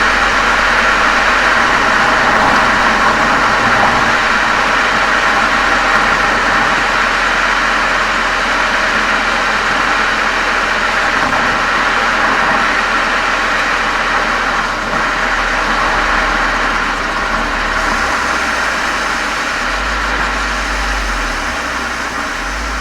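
Volkswagen Golf 7 GTI's turbocharged 2.0-litre four-cylinder exhaust, fitted with a Cox aftermarket muffler and chamber, running steadily as heard from a microphone outside the car at the rear. It eases off slightly in volume near the end.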